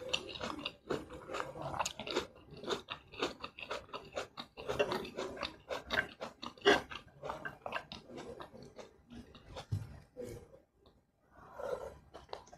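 Close-miked chewing of a mouthful of spicy cheese instant fried noodles, with quick wet smacking clicks. It thins out later, and a short burst of mouth noise comes near the end as another bite of noodles goes in.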